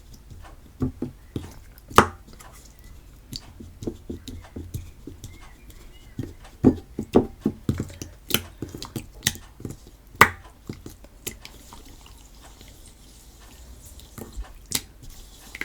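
Homemade PVA-glue slime being kneaded and squeezed by hand, giving irregular sticky clicks and pops that come thickest in the middle stretch.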